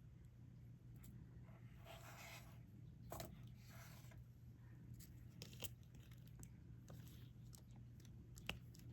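Faint scattered clicks and brief light scraping of a diamond-painting stylus picking up resin drills and pressing them onto the sticky canvas, over a low steady hum.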